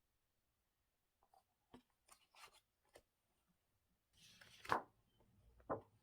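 Faint handling of a paper or cardboard craft: a few light clicks and short scrapes, then a louder rustling scrape ending in a sharp knock, and another knock near the end.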